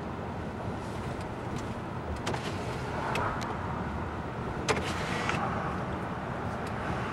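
Car driving: steady road and engine noise, with a few faint clicks and one sharper click about two-thirds of the way through.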